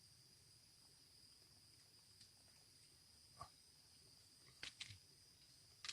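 Near silence with a faint, steady, high-pitched insect drone in the forest, and a few soft taps about three and a half and just under five seconds in.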